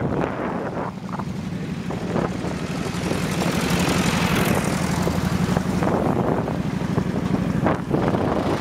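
Motorbike engine running at a steady drone under wind buffeting on the microphone, the engine getting louder from about three seconds in.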